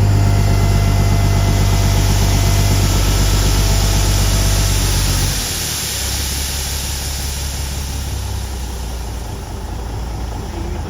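Peterbilt 359 dump truck's diesel engine running steadily at a raised idle while the load is being dumped, then dropping to a lower, quieter idle about five seconds in.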